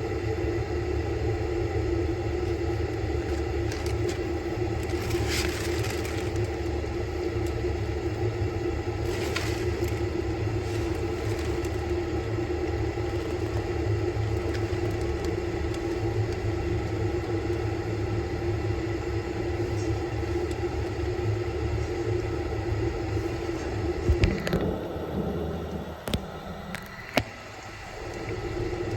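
Samsung Bespoke Grande washing machine running its quick-wash cycle: a steady motor hum over a low rumble. About 24 seconds in the sound changes with a knock, and a couple of sharp clicks follow.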